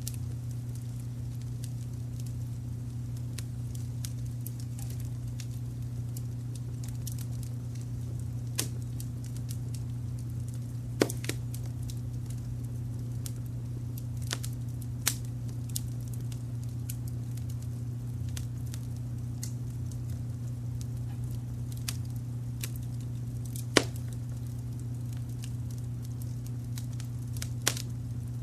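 Wood fire crackling, with sharp pops and snaps at irregular intervals; the two loudest come about a third of the way in and again past the middle. Underneath runs a steady low rumble of brown noise.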